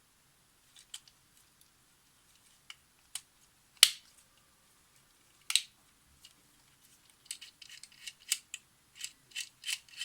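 Small sharp metallic clicks and taps of camera parts and small tools being handled: a few isolated clicks, one louder snap just before four seconds in, then a quick irregular run of clicks from about seven seconds in.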